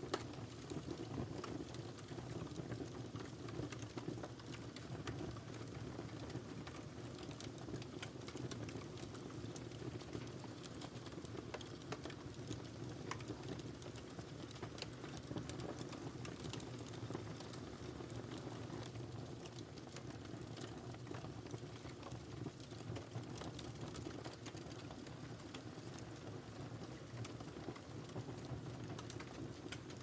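Wood fire crackling steadily: a continuous low rumble of burning with frequent small irregular pops and snaps.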